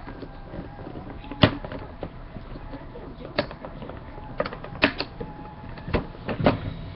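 Plastic Lego pieces being handled and snapped together: a scattered series of about seven sharp clicks and clacks, the loudest about a second and a half in.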